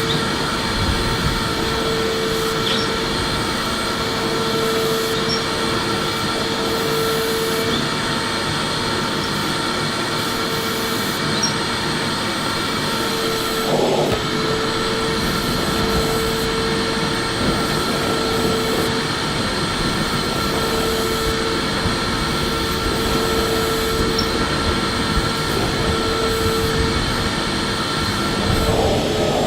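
Electric vacuum cleaner running steadily: an even rushing noise with a constant hum, and a brief change in the sound about halfway through.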